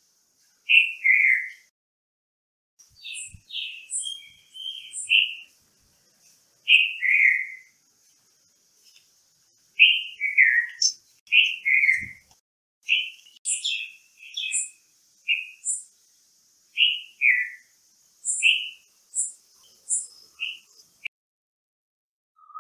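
Birds calling: one repeats a short two-note call, each note sliding downward, every second or two, while another gives brief high chirps. A faint steady high hiss runs behind them, and everything cuts off shortly before the end.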